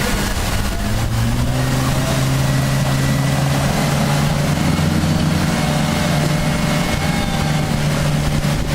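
Rented pontoon boat's outboard motor running under way, its engine note shifting about a second in and then holding steady, over a rush of wind and water noise.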